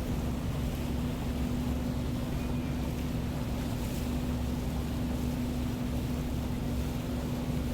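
Lake cruise boat's engines running steadily underway: a constant low drone with one unchanging hum tone over a rumble.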